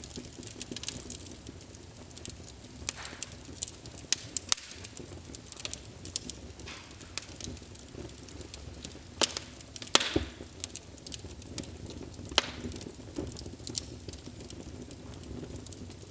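Wood fire burning in a fireplace, crackling with irregular sharp pops and snaps over a steady low rush of flame. Several louder pops stand out, around the middle of the stretch and again a little later.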